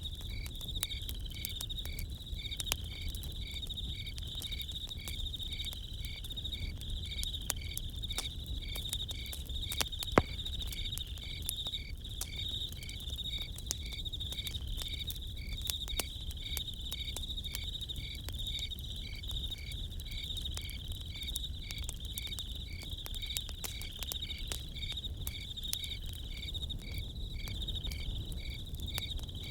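Crickets chirping steadily, one of them in an even pulse about twice a second, over a campfire crackling with scattered pops, one sharp pop about ten seconds in.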